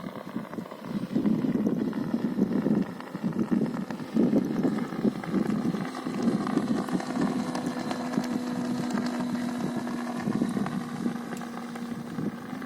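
Piston engine of a Cessna Cardinal light aircraft running, uneven at first, then settling into a steady low hum about six seconds in.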